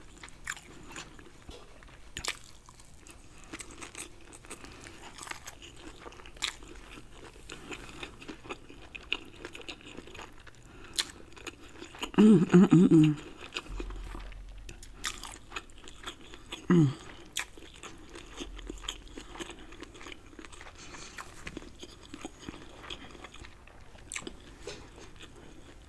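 Close-miked chewing of seafood in Alfredo sauce: scattered soft mouth clicks throughout, with a short voiced hum about halfway through and another briefer one a few seconds later.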